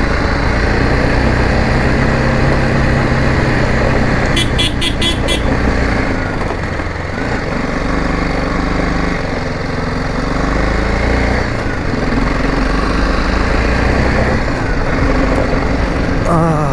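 Motorcycle engine running steadily under way. Just after four seconds in, a quick run of about six short high-pitched beeps.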